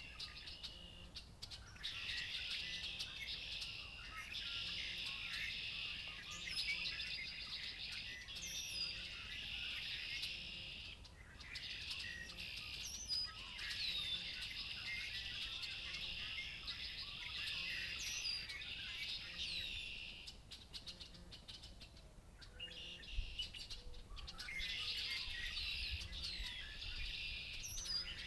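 A chorus of songbirds led by red-winged blackbirds, with many overlapping chirps, whistles and trills in long dense spells that thin out twice. A single low thump about two-thirds of the way through.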